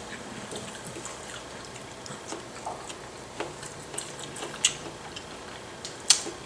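Close-up eating sounds: scattered soft, wet mouth clicks and smacks of people chewing food, with a couple of sharper clicks about two-thirds of the way in and near the end.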